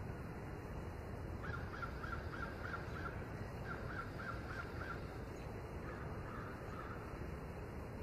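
A bird calling in two quick runs of short repeated notes, about four a second, starting about a second and a half in, then a fainter brief phrase near the end. A steady low background noise runs underneath.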